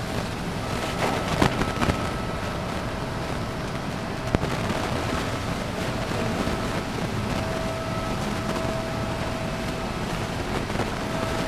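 Steady outdoor background noise with wind on the microphone, a faint steady hum that fades in and out, and a few light clicks in the first half.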